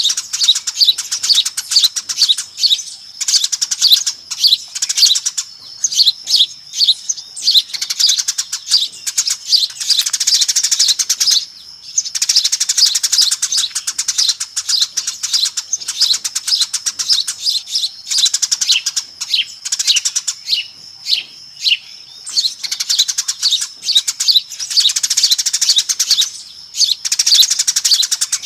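A flock of Eurasian tree sparrows chirping busily: a dense run of rapid, high chirps, broken by short pauses every few seconds. It is a sparrow lure call, played to draw in wild sparrows.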